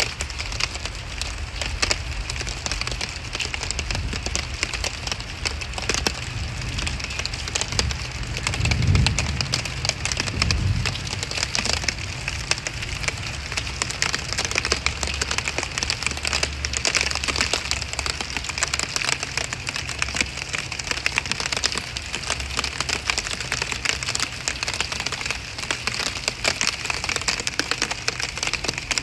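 Steady heavy rain falling, a dense crackle of drops striking a surface, with a low rumble that swells briefly about nine seconds in.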